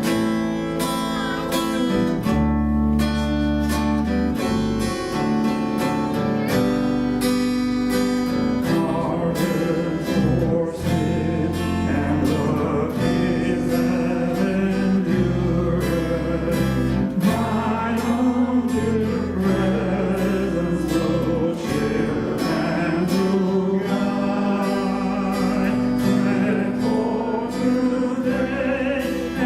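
Worship song: strummed acoustic guitar over a steady bass line, with voices singing along from about ten seconds in.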